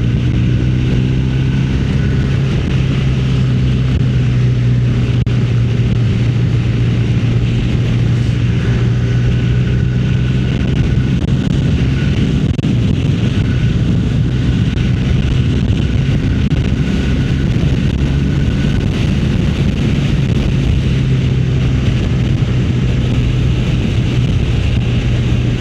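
Motorcycle engine running at a steady cruise, its pitch holding nearly constant, with wind rushing over the microphone.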